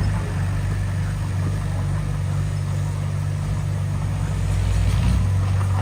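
Heavy diesel engine of earthmoving machinery running steadily at a low, even pitch, a little louder about five seconds in.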